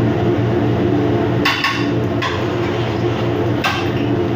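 Steady low machinery hum, with three short knocks about a second and a half, two seconds and three and a half seconds in.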